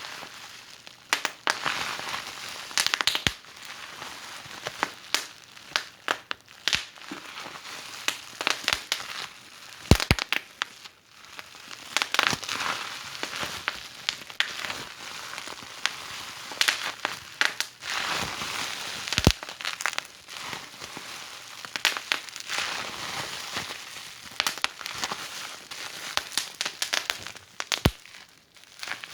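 Wood fire burning in a fireplace: a steady hiss of flames with irregular crackles and sharp pops from the burning logs.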